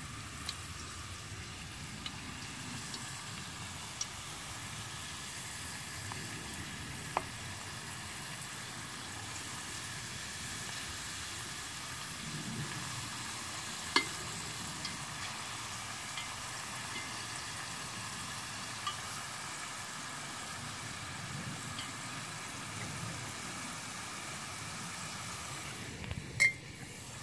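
Thin potato slices deep-frying in oil in a Dutch oven: a steady sizzle, with a few sharp pops, the loudest about halfway through and near the end. The oil is at a gentler frying temperature, with the slices no longer burning.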